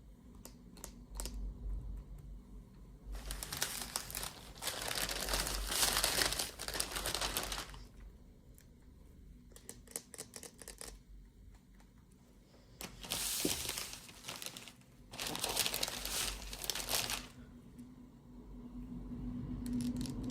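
Packaging being crinkled and torn open by hand in three bursts, the longest about four seconds, with a few small clicks near the start.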